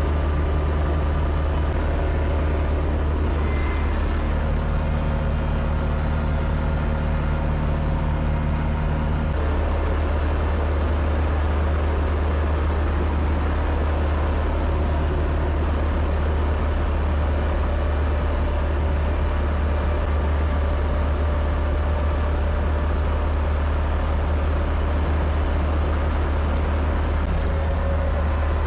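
Kubota tractor's diesel engine running steadily under load, a deep continuous drone whose tone shifts about nine seconds in.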